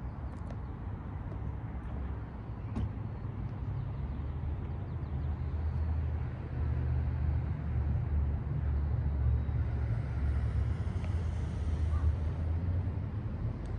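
Toyota 1KZ-TE 3.0-litre four-cylinder turbo diesel running with a steady low drone that grows somewhat louder about six seconds in.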